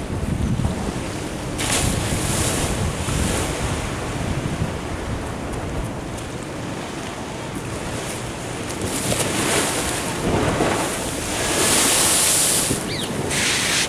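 Ocean waves washing against a sea wall, coming in several hissing rushes with the loudest near the end, over a low rumble of wind buffeting the microphone.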